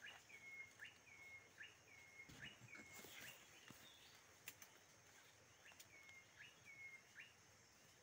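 A forest bird that goes 'cikuk, cikuk' calling over and over: each call a quick upward note followed by a short flat note, repeated about once or twice a second, with a short break about halfway through before it starts again.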